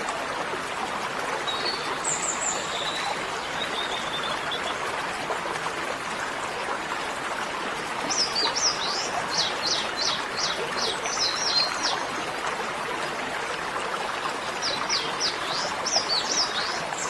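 Steady rush of running water with a bird singing: a few thin calls early, then a quick run of downward-sweeping chirps about halfway through and again near the end.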